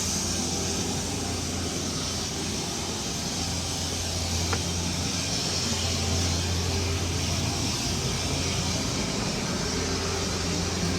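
Steady low mechanical hum with a broad hiss over it, unchanging throughout, with one faint click about four and a half seconds in.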